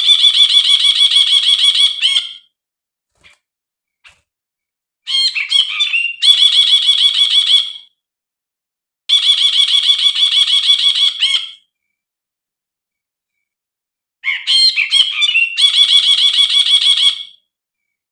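Brinji bulbul calling in four bouts of fast, rapidly repeated chattering notes, each lasting two to three seconds. The second and fourth bouts open with a few varied notes. This is the kind of recording used as a lure and training call for brinji kept as cage birds.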